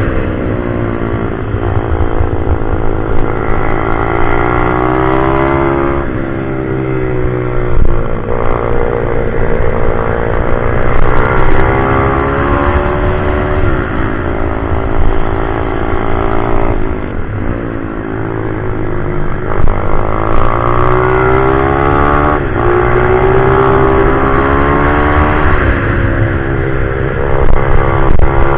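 Pit bike engine revving up and falling back over and over, its pitch climbing for several seconds at a time and dropping sharply, as on a bike lapping a twisty track. A steady low rumble sits beneath it.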